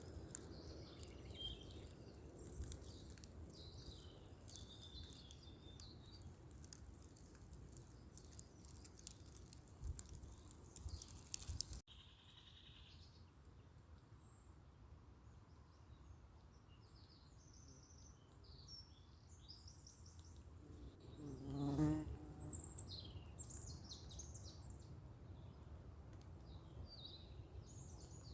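Faint spring woodland birdsong, many short chirps and calls over a low rumble of wind. About 21 seconds in, a flying insect buzzes close past, briefly the loudest sound.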